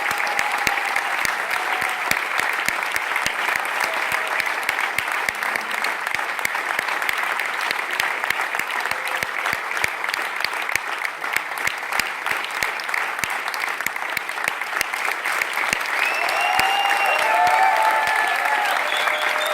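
Concert audience applauding steadily, a dense patter of clapping, as a song ends. Some cheers and calls rise above it near the end.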